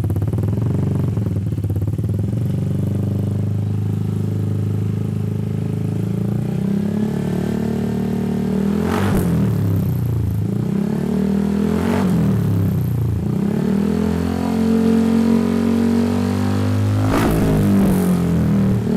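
Honda ADV 160 scooter's single-cylinder four-stroke engine running through a Prospeed Black Series aftermarket exhaust. It idles steadily, then from about six seconds in is revved up and down several times, with a sharp crack at several of the rev peaks.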